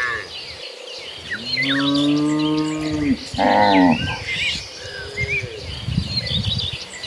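Cattle mooing: one long, low moo begins about a second in and is followed at once by a shorter, higher moo, with a fainter moo a little later. Small bird chirps sound in the background.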